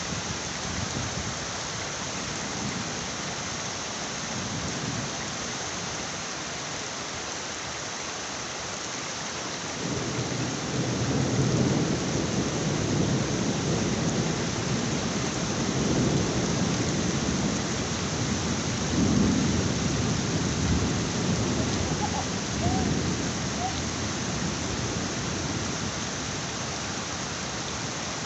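Heavy rain falling steadily, with a long rolling rumble of thunder that builds about ten seconds in, swells several times and dies away over roughly fourteen seconds.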